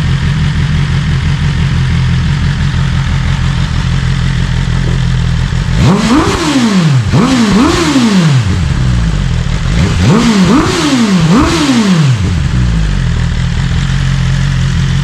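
BMW S1000RR inline-four idling, then blipped three times in quick succession, back to idle, and blipped three more times. It is running through the stock exhaust with the butterfly valve stuck open because the actuator cables are disconnected, giving a deeper growl that is pretty loud.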